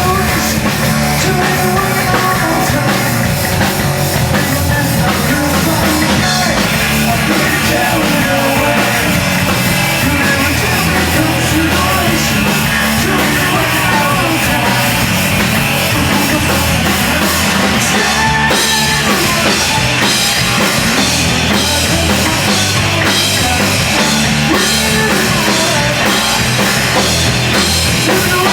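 A hardcore punk band playing loud and without a break: distorted guitars and a drum kit.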